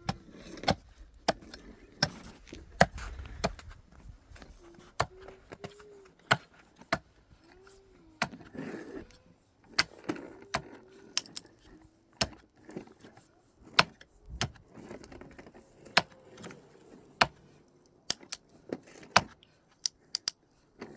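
A long run of sharp clicks and knocks at irregular spacing, about one or two a second, like hand work with a tool or hard objects.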